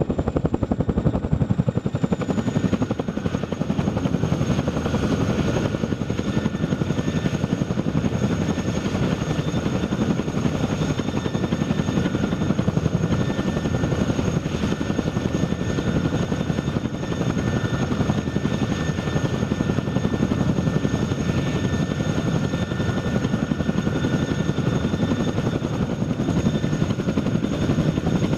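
Boeing CH-47 Chinook tandem-rotor helicopter running close by, its two rotors making a fast, even blade chop over the steady high whine of its twin turboshaft engines.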